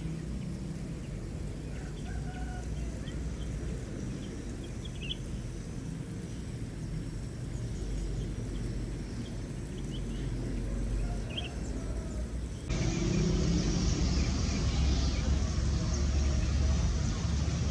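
Aviary birds giving a few scattered short chirps over a steady low rumble. About thirteen seconds in the sound cuts abruptly to a louder, noisier background with more chirps.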